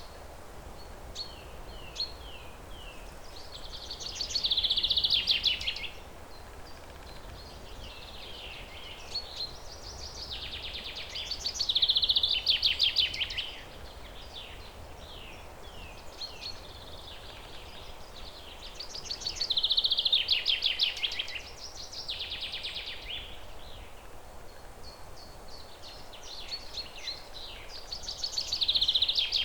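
A songbird singing the same song four times, about every eight seconds: each song is a quick run of short chirps that builds into a loud, fast trill lasting a couple of seconds. A steady background hiss of outdoor ambience runs underneath.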